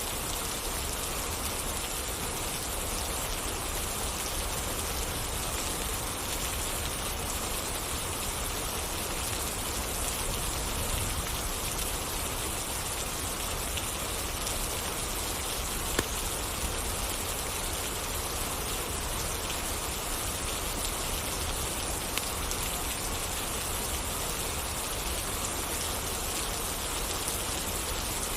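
Steady, even rain falling, with a few isolated sharp clicks or pops, the loudest about halfway through.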